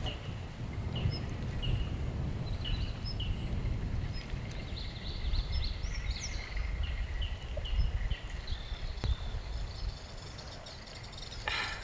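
Small birds chirping, many short high chirps and trills, over a steady low rumble, with a brief rustling noise near the end.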